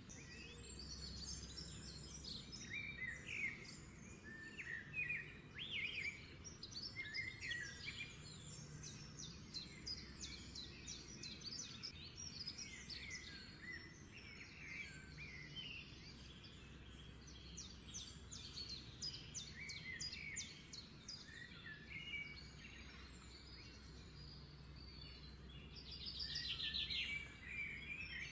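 Small birds chirping and twittering, many short calls at mid to high pitch, with a rapid trill near the end, over a low steady hum.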